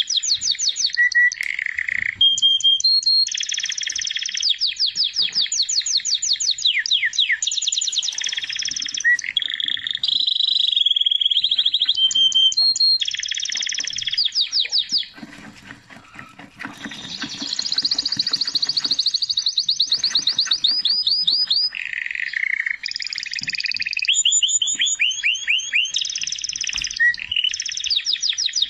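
A songbird singing a long, continuous song of rapid trills and chirps, switching to a new repeated phrase every second or two, with a brief pause about halfway through.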